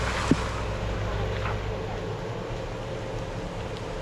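Jeep engine running at low speed as it crawls up a rock ledge, its low rumble easing off about two seconds in. A single sharp knock sounds just after the start.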